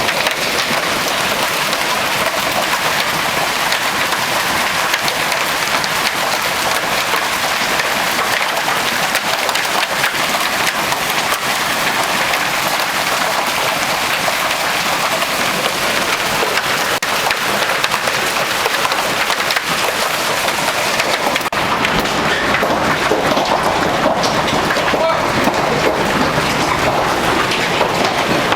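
Hailstorm: a dense, steady clatter of hailstones and rain striking surfaces, turning somewhat duller about three-quarters of the way through.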